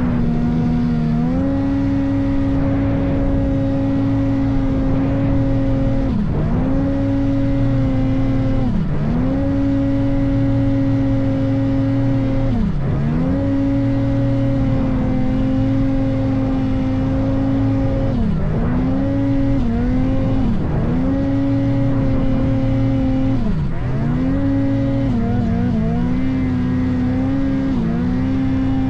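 Ski-Doo turbo snowmobile engine running at high, steady revs, the pitch dropping briefly and picking back up every few seconds, more often near the end.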